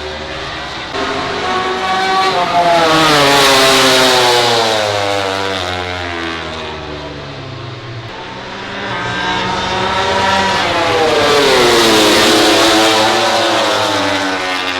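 MotoGP racing motorcycle engines on track, swelling loud twice, about 8 seconds apart, with the engine pitch gliding down and back up.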